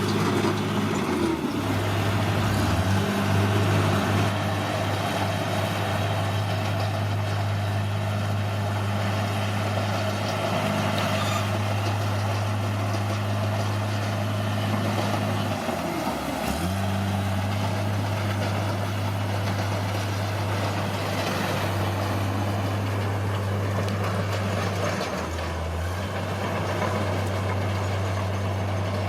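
Heavy diesel engine of a bulldozer running steadily under load, its note dipping briefly three times as the engine bogs and recovers.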